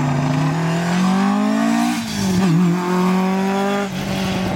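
Rally car engine accelerating hard: the revs climb for about two seconds, drop briefly at a gear change, then hold steady.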